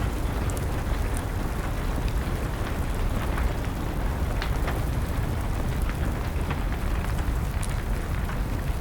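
Wood fire crackling, with scattered sharp pops over a steady hiss of rain and a low rumble.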